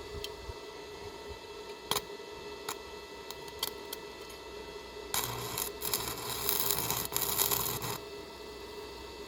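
A few sharp ticks, then an electric arc welder crackling and hissing for about three seconds with a low electrical hum, as the arc cuts through a chain, before it stops abruptly.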